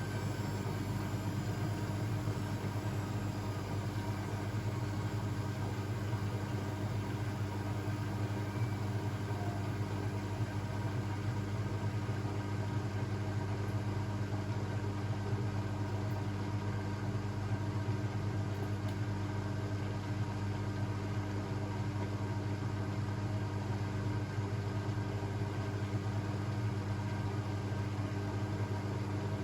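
Blomberg WAF 7442 SL washing machine running with a steady, unchanging hum.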